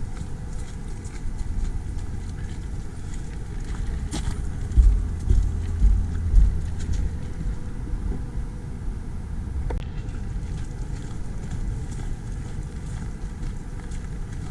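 Wind buffeting the microphone outdoors, a low rumble with a few stronger gusts about five seconds in.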